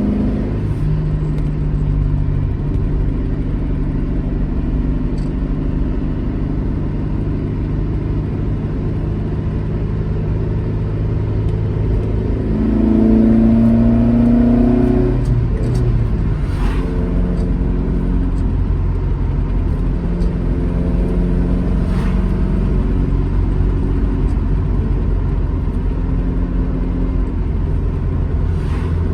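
Alfa Romeo GT Junior's twin-cam four-cylinder engine pulling the car along at steady revs. About halfway through the revs climb and the engine grows louder for a few seconds, then drop back.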